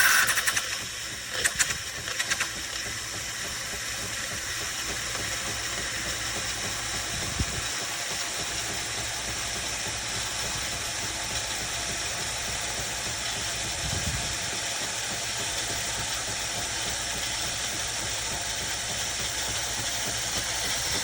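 Fully automatic coffee machine running with a steady hiss, after a few clicks in the first couple of seconds.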